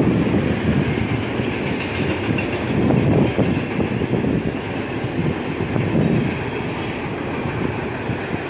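Freight train cars rolling past: a steady rumble of steel wheels on the rails with clickety-clack over the rail joints, swelling every few seconds as cars go by.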